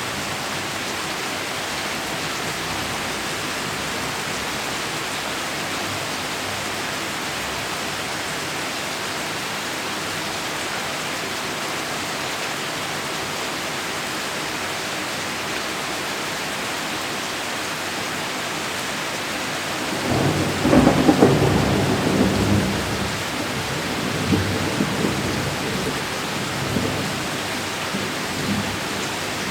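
Heavy rain falling steadily. About two-thirds of the way through, a sudden thunderclap breaks out and rolls on as a rumble that swells and fades over several seconds, louder than the rain.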